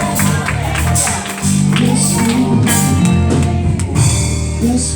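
Church praise band playing: a drum kit with cymbal strikes over sustained low chords, with a brief lull about a second in.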